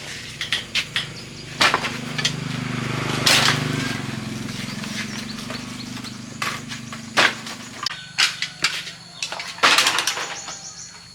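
Scattered knocks and clatter of hard objects being handled, with a low steady hum underneath from about two seconds in until about eight seconds in.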